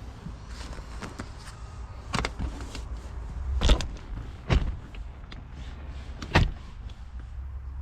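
Four sharp knocks or clanks, spaced a second or two apart, over a low steady rumble.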